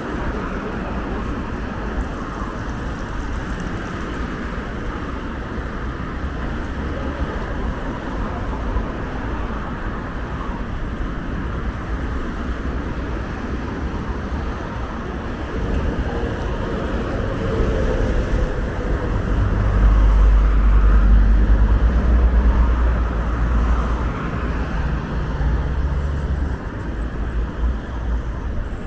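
City street traffic noise heard while riding, a steady hum of passing cars. A heavier low rumble swells about two-thirds of the way in and fades again a few seconds later.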